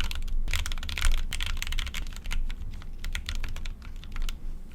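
Typing on a Keychron Q1 mechanical keyboard with its stock Gateron G Pro brown tactile switches: a fast, unbroken stream of key clicks and clacks. The typing is low in noise, with a light, fairly dull feel.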